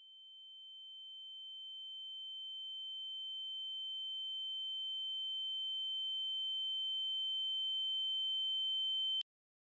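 A high-pitched electronic sine tone, a steady ringing pitch with a faint lower tone beneath it. It swells slowly louder, then cuts off abruptly near the end.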